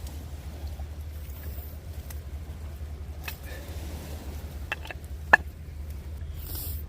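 Campfire burning, with a few sharp crackles and one loud pop about five seconds in, over a steady low rumble.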